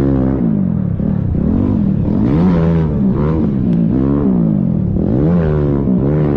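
Dirt bike engine revving up and down over and over, its pitch rising and falling about once a second.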